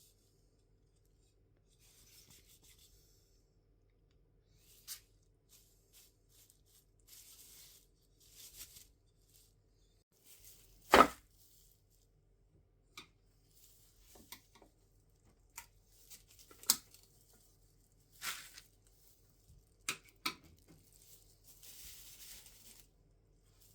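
Hand work on the wooden birdhouse parts: scattered knocks and taps, one much louder knock about eleven seconds in, and short scraping or rubbing strokes between them.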